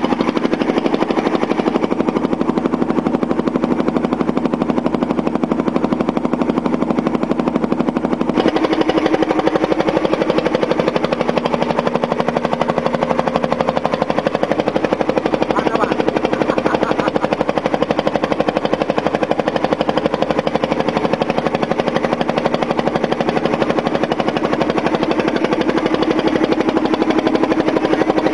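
A small engine running steadily with a fast, even pulse; its pitch shifts suddenly about eight seconds in.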